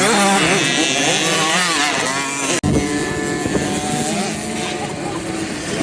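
Several motocross bikes running on the track, their engines revving up and down in pitch as they ride. The sound drops out for an instant about two and a half seconds in.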